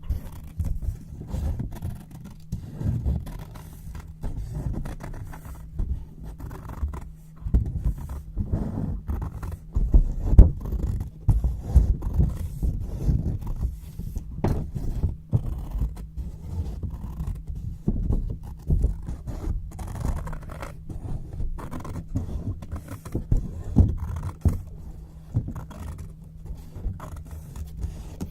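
Scissors cutting through white paper close to the microphone: a continuous run of uneven snips and paper scraping, with a low steady hum underneath.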